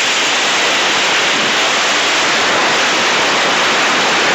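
Loud, steady burst of static hiss, like an untuned radio.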